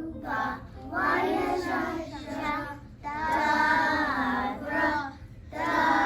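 A child singing a song, in held phrases of a second or so with short breaks between them.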